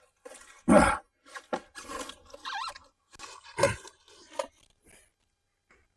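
A string of short, irregular crunches and rustles, loudest just under a second in and again after three and a half seconds. No engine is running.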